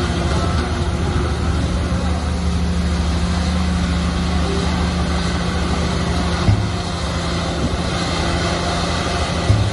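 Heavy diesel earthmoving machinery running steadily under load, with a short low thump about six and a half seconds in and another near the end.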